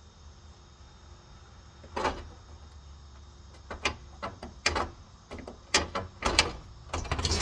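Irregular knocks and clicks, scattered over the last five seconds, over a low steady hum.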